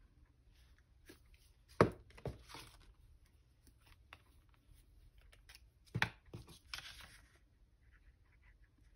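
Paper craft materials being handled on a tabletop: sharp knocks as things are set down or tapped, twice in pairs, each followed by a short rustle of paper.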